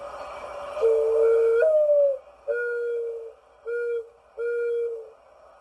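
A bird calling in clear, steady whistled notes: a long note that steps up in pitch near its end, then three shorter notes with brief gaps between them.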